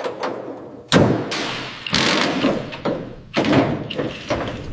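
Heavy thuds and metallic clatter of car body parts being handled and removed, with one loud thud about a second in.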